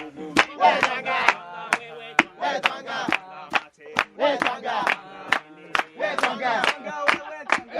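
Coffee beans pounded with a pestle in a mortar, sharp strikes about twice a second, under a group chanting and singing in time with the blows.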